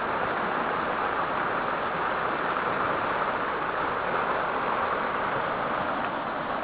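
Creek water rushing steadily over rocks, an even hiss with no breaks.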